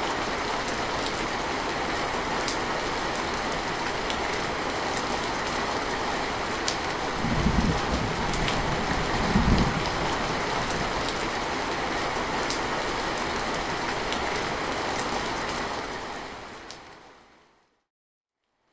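Steady rain falling, with scattered individual drops. Two short low rumbles of thunder come about midway. The rain then fades out to silence near the end.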